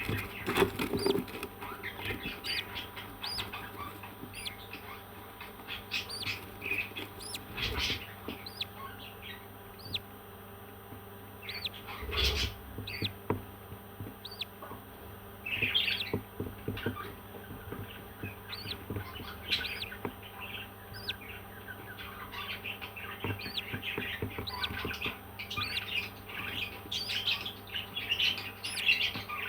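Parrots chirping and squawking in many short, quick calls, with two knocks about 8 and 12 seconds in.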